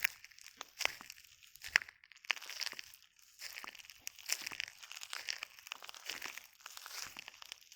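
Footsteps in flip-flops crunching over a beach of loose shells: a crackly crunch of shells cracking and grinding underfoot with each step, the sharpest cracks about one and two seconds in.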